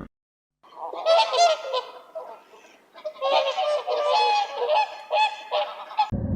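Birds honking in a run of short, repeated calls, several of them overlapping, starting just under a second in.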